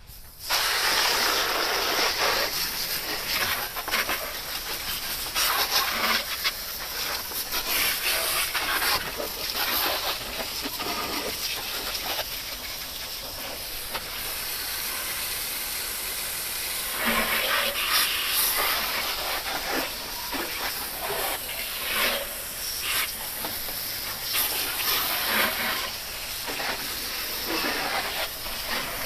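Water jet spraying into an engine compartment to rinse off degreaser. It makes a continuous hiss and splash that swells and fades as the spray moves over the engine, and it starts abruptly just after the beginning.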